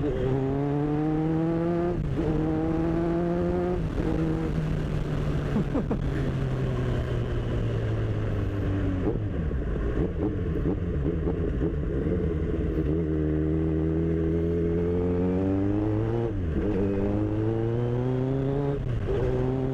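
Kawasaki Z1000's inline-four engine accelerating through the gears: the pitch climbs and drops back with quick upshifts about two and four seconds in. It then winds down slowly for several seconds before pulling up again, with another shift near the end.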